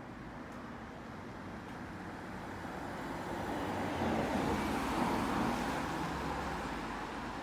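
A single car passing by on the road, its noise building slowly to a peak about four to five seconds in and then fading away.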